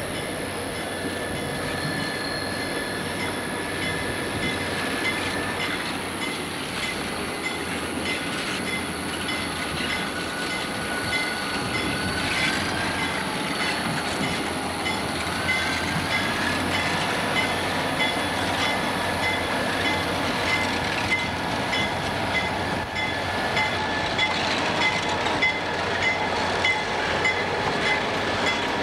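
Burlington Northern diesel locomotives rolling slowly past with their engines running, wheels squealing on the rails in wavering high tones. The sound grows louder toward the end as the units come alongside.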